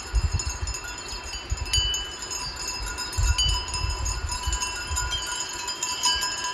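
Sheep bells on a grazing flock, clanking and ringing unevenly, with many bells at different pitches. Irregular low rumbles run underneath.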